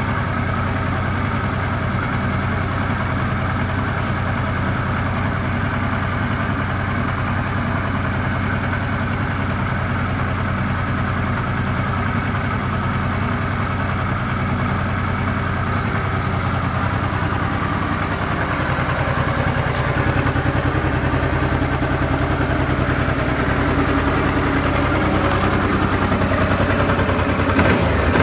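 Honda NT700V Deauville's 680 cc V-twin engine idling steadily through its stock exhaust, slightly louder in the second half, then briefly revved near the end.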